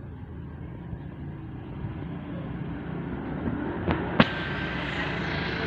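A motor vehicle engine rumbling steadily and growing a little louder, with two sharp clicks about four seconds in, the second the loudest.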